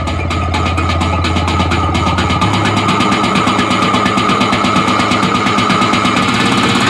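Electronic dance music played loud through a car audio system's Hertz speakers and MB Quart underseat subwoofer, with a fast, even beat, a held high synth tone and a deep bass note that changes about two and a half seconds in.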